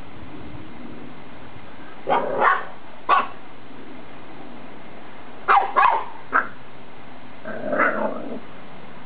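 A boxer puppy barking in short, sharp barks, about six in all in two bursts, trying to provoke an older dog. Near the end comes a longer, lower, drawn-out dog vocalisation lasting about a second.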